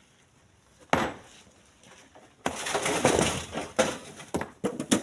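Split stones being thrown into a truck bed: a single sharp knock about a second in, a longer clatter of rock on rock from about halfway, then a few more sharp knocks near the end.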